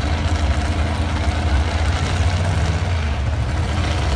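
Farm tractor engine running steadily with a heavy, low drone.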